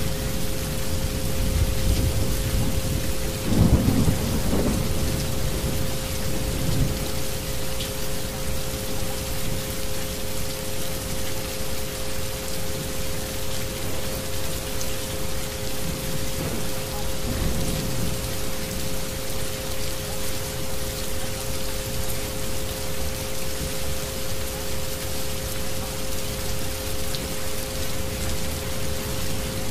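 Recorded rain falling steadily, with thunder rumbling about four seconds in and again around seventeen seconds. Two steady pure tones from the isochronic-frequency track run underneath.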